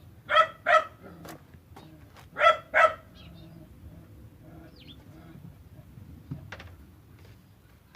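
A dog barking: four loud barks in two quick pairs, the second pair about two seconds after the first.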